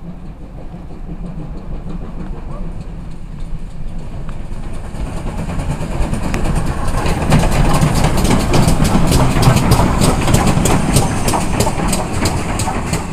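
A train running close by on the works line, its wheels clicking repeatedly over the rail joints; the rumble builds over the first half and the clicking is loudest about two thirds of the way through.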